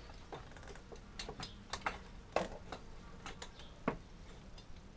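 Irregular light metallic clicks and knocks as an FMF aftermarket muffler is handled and slid into place on the dirt bike's exhaust, with sharper knocks about halfway and near the end.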